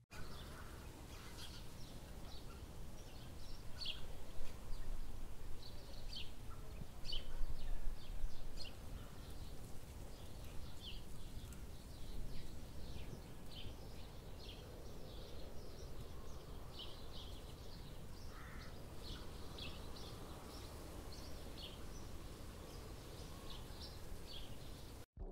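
Small birds calling and singing in woodland, many short chirps throughout, over a steady low rumble.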